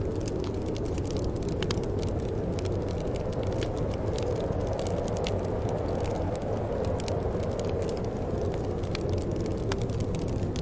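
Steady, low wind noise, with scattered small crackling pops of a wood fire over it.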